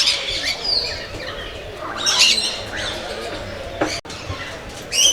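Several aviary birds squawking and calling, with loud harsh calls at the start, about two seconds in and again near the end.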